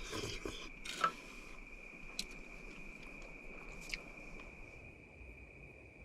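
Crickets singing in a steady, continuous high-pitched trill. Rustling and clicking fill the first second and a half, and a couple of sharp ticks come later.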